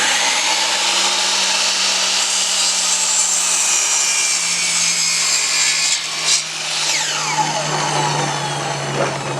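Power saw cutting through a length of framing lumber in one long, continuous cut, its motor pitch sagging slowly under the load.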